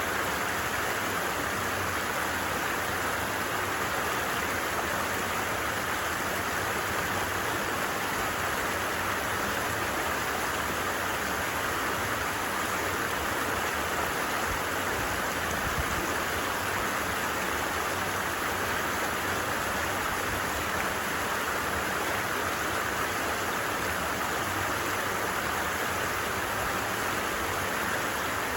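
A stream flowing steadily: an even, unbroken rush of running water with no breaks or changes.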